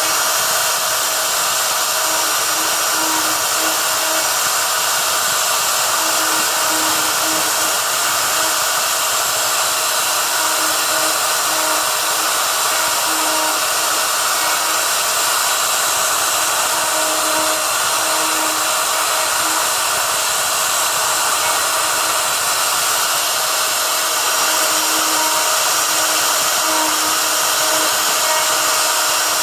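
Router motor on an MG/Messer CNC sign router running steadily during a test cut. Underneath the steady whine a fainter, lower tone keeps coming and going.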